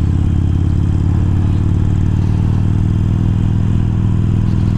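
Harley-Davidson Iron's air-cooled V-twin, fitted with a 1200 kit and Screamin' Eagle slip-on mufflers, running at a steady cruise, its exhaust note holding a constant pitch.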